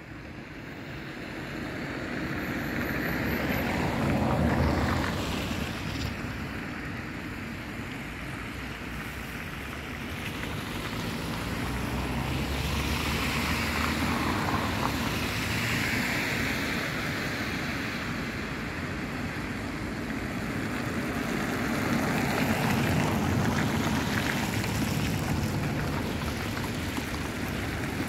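Freight train hauled by two Sr2 electric locomotives passing close by: a continuous rumble and rush of wheels on rails that builds over the first few seconds and then stays loud, swelling and easing as the train goes by.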